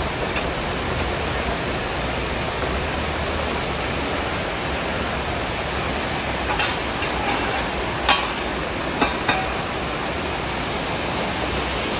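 Strips of orange and yellow carrot sizzling in hot oil in a huge cauldron, a steady dense hiss. A few sharp knocks come about eight and nine seconds in.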